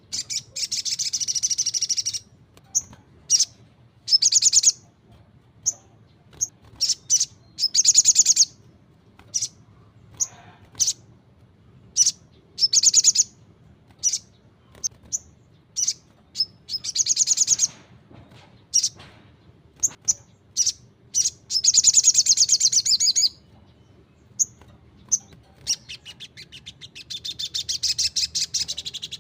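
Little spiderhunter (sogon) singing in full voice: high, rapid chattering trills of about one to two seconds each, with short single chips between them.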